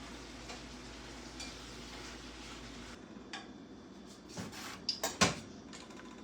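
Dishes and cutlery clinking and knocking together in a handful of sharp clatters, the loudest about five seconds in, over a steady background hum.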